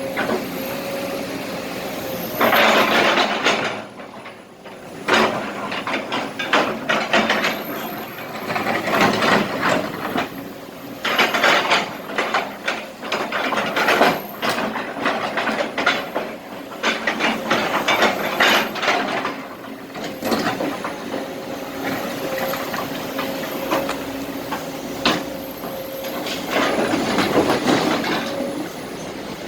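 Kobelco SK200 hydraulic excavator at work: its diesel engine and hydraulics hum steadily while broken asphalt and small rocks scrape and rattle loudly in repeated stretches of a second or two as the bucket scoops and dumps them into a truck.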